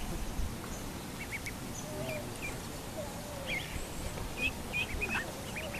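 Ducklings peeping: short high chirps in small clusters, more frequent in the second half, over a steady low outdoor rumble.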